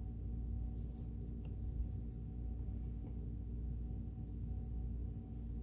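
Faint scratching and light clicks of hands working on a Kenmore sewing machine's mechanism while it is being oiled, over a steady low hum.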